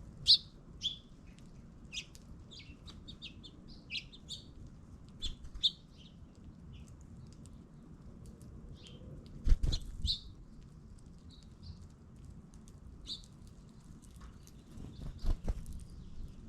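Small birds chirping with many short, high calls in quick succession, thinning out in the middle. Two clusters of low thumps come about ten seconds in and near the end.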